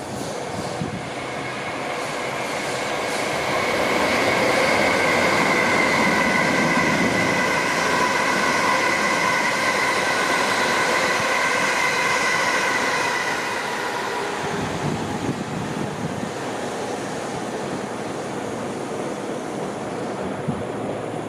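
Suburban electric train running on the tracks, its rumble swelling and then easing off. A set of steady high ringing tones comes in at about 2 s and dies away a little after the middle.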